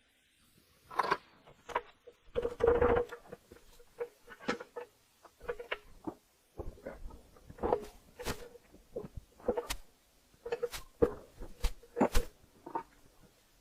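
Hand tools knocking and clinking on the metal of an old air compressor being stripped down. The knocks are irregular and sharp, many with a short metallic ring, and there is a longer rattle about two and a half seconds in.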